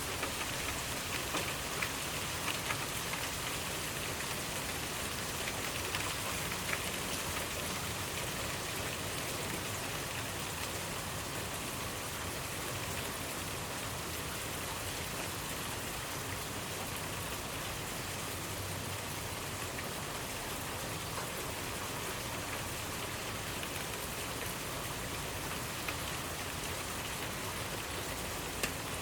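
Steady rainfall: a dense, even hiss of rain falling on surfaces, with a few sharper individual drop ticks in the first several seconds and again near the end.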